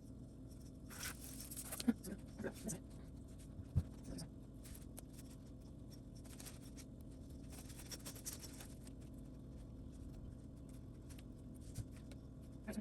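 Soft scratching and rustling of a slippery plastic rattan strand being threaded and pulled through a chair's woven cane, in short bursts with a light tick about four seconds in.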